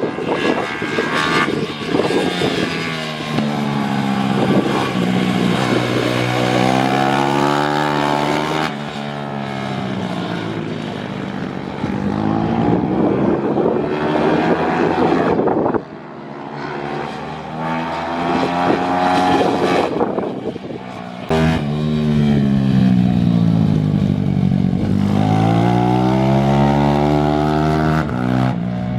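Pit bike engines on track, revs dropping as the bikes slow for a corner and then climbing again as they accelerate away. This happens about four times in turn, with a short lull just before the middle.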